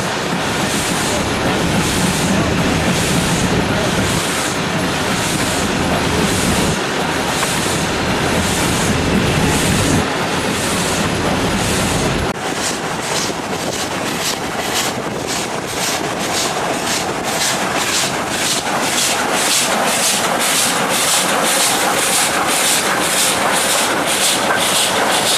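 CFR steam locomotive 231.065 working, its exhaust beats chuffing in an even rhythm of about one a second. About halfway through, the sound changes abruptly and the beats come faster, quickening to around three a second.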